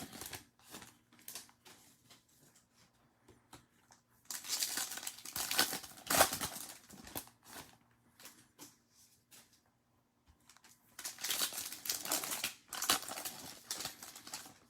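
Plastic wrappers of trading-card packs being torn open and crinkled, in two longer bouts of crinkling with light rustles and clicks of handling between.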